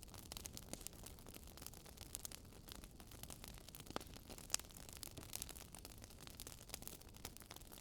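Wood fire crackling faintly, with scattered sharp pops over a low hiss; two louder pops come about four seconds in.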